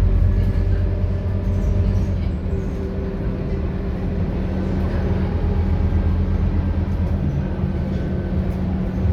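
Scania K230UB city bus running on the road: the diesel engine gives a steady low drone, with a few faint steady whining tones above it.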